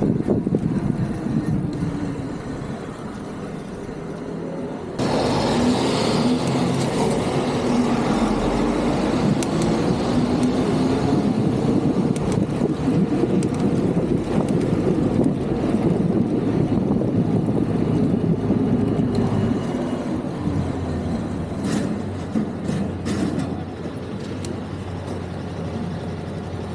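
City road traffic around a cyclist: motor vehicles running close by, one engine's pitch rising and then falling through the middle. The noise gets louder suddenly about five seconds in, and a steady low engine hum, typical of traffic idling, sets in near the end.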